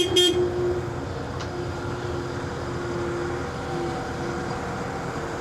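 Heavy diesel equipment running steadily: an even droning hum with a constant tone. There is a short horn-like toot right at the start.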